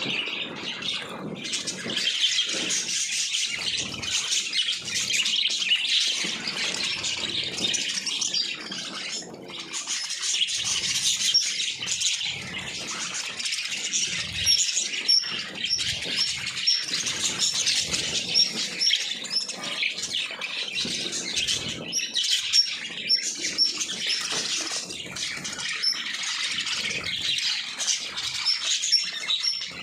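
A flock of small pet cage birds chirping and chattering continuously, many short high calls overlapping, with small clicks among them.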